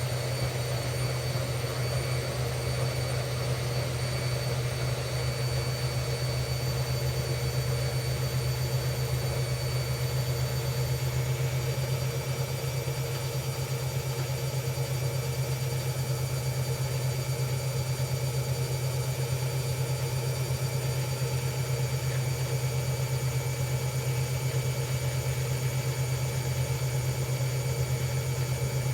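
Hoover Ecologic Computer Washer 1300 washing machine running steadily in its spin, a constant motor-and-drum hum with faint steady whining tones above it. The higher tones shift slightly about ten seconds in.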